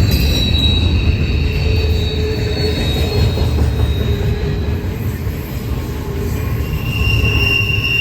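Norfolk Southern freight train rolling past with a steady low rumble, its wheels squealing against the rail in thin high tones that shift in pitch now and then.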